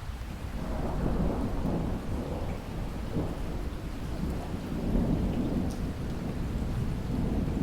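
Thunder rumbling, swelling about half a second in and rolling on in waves, over steady rain.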